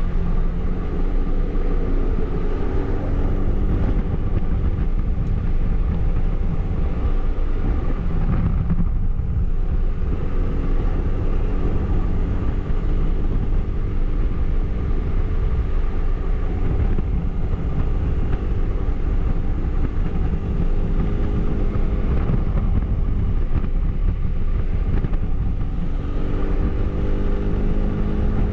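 Suzuki Burgman 400 maxi-scooter's single-cylinder engine running through its stock exhaust while riding, over constant wind and road rumble. The engine note shifts with speed, fading briefly about a third of the way in and coming up stronger again near the end.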